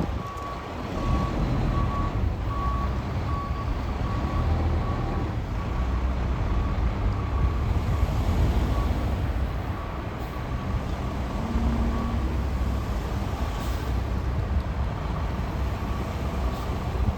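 Fire truck reversing: its backup alarm beeps steadily, a little faster than once a second, over the low rumble of the engine. The beeping grows fainter about six seconds in.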